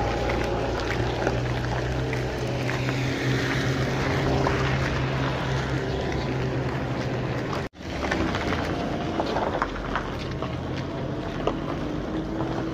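A small car's engine running slowly close by, a steady low hum, with wind buffeting the microphone. The sound cuts out for an instant about eight seconds in, then comes back with the engine hum fainter.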